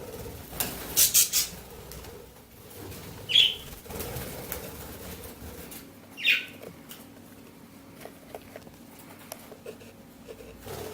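Budgerigar chicks: a short flurry of wing flaps about a second in, then two brief calls that fall in pitch, about three seconds apart, with small scratching and rustling between them.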